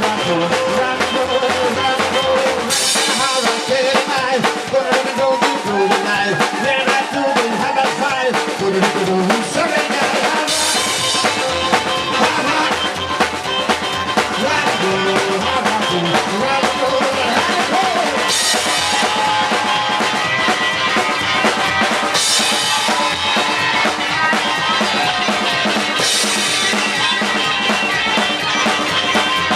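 Live rock and roll band playing an instrumental passage: a drum kit keeps a steady beat under a wandering lead line, with cymbals coming in and dropping out every few seconds.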